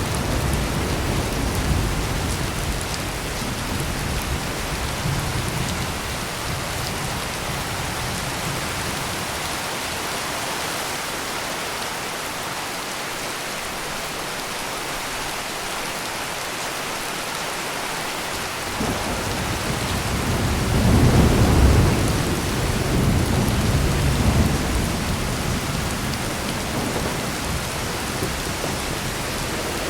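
Heavy rain pouring steadily, with thunder rumbling low. The thunder dies away in the middle, then a louder roll swells up about two-thirds of the way through and fades over several seconds.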